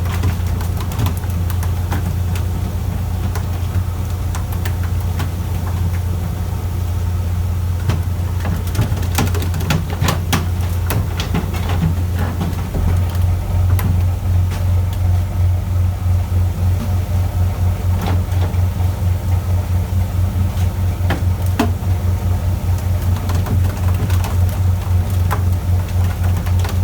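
A fishing boat's engine running steadily with a deep hum. About halfway through, the hum takes on a fast, regular pulsing beat. A few scattered clicks and knocks come over it.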